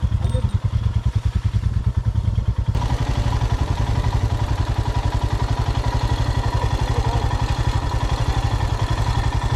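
Motorcycle engine running with a steady, fast, even beat. About three seconds in, the sound brightens and grows fuller as the engine note rises.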